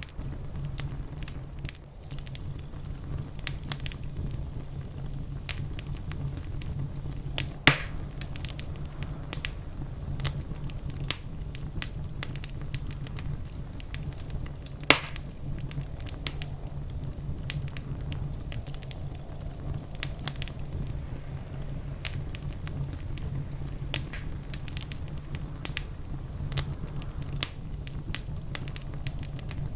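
Fireplace fire crackling: many scattered sharp crackles over a steady low rumble, with two louder pops about a quarter and halfway through.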